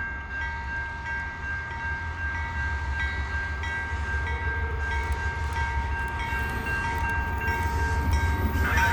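CN freight train led by two GE C44-9WL diesel locomotives approaching, a deep rumble growing slowly louder, with two steady high tones held over it.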